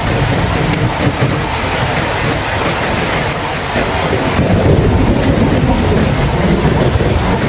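Heavy rain falling steadily, with a deep low rumble underneath that grows a little stronger about halfway through.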